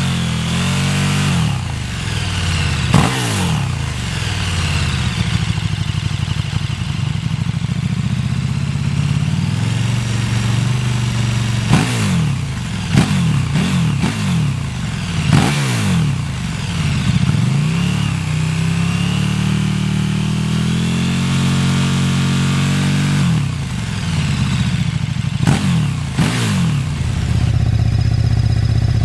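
KTM 1290 Super Duke R's V-twin engine running and revved in repeated throttle blips, each rising and falling in pitch. Several blips end in sharp cracks from the exhaust.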